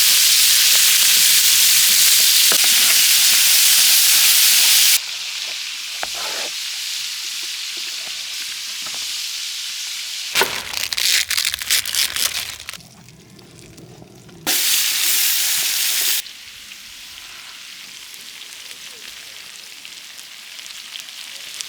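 Food frying in hot fat in a pan: a loud sizzle that drops abruptly to a steadier, quieter sizzle about five seconds in. Crackling and clicks come around the middle, then another short loud sizzle, then the quieter sizzle again.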